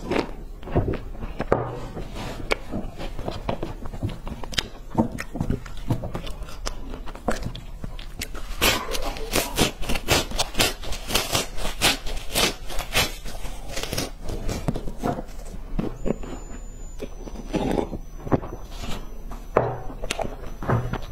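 Close-miked crunching and chewing of dry, crumbly brown sticks bitten off and eaten. Scattered crunches at first, then a dense run of rapid crunches in the middle and another run near the end.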